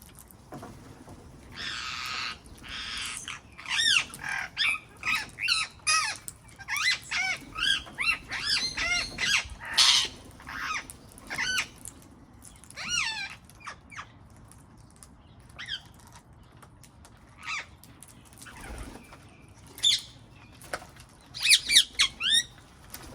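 Wild parrots calling: two harsh rasping squawks about two seconds in, then a dense run of short, shrill calls that bend in pitch, thinning out to scattered calls, with a quick flurry near the end.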